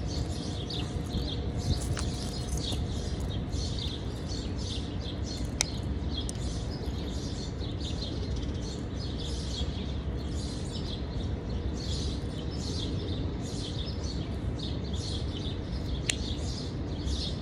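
Small birds chirping over and over, a few short calls a second, above a steady low background rumble. Three sharp clicks stand out, about two, five and a half, and sixteen seconds in.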